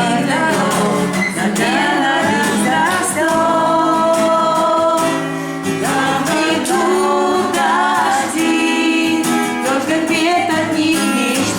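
A song sung to acoustic guitar strumming, with voices holding long notes of the chorus.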